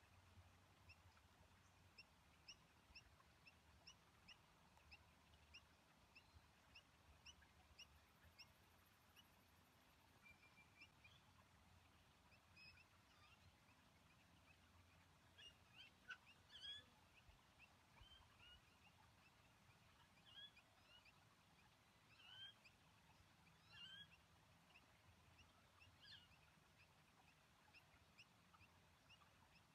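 Near silence with faint bird chirps: a run of short high chirps about twice a second, then a few louder, separate calls in the second half.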